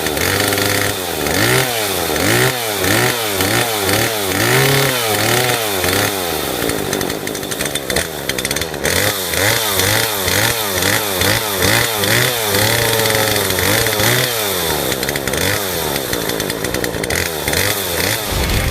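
ZOMAX ZM4402 two-stroke engine chainsaw revving up and down over and over, about one to two revs a second, with one longer rev about two-thirds of the way through.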